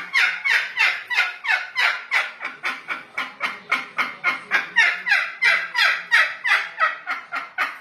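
A pet parrot mimicking laughter in a long, rapid cackle of short falling 'ha' calls, about three to four a second, without a break.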